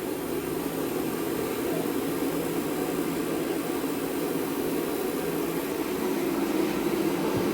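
Portable gas-fired forced-air heater running, its fan and burner giving a steady noisy hum with a faint low tone.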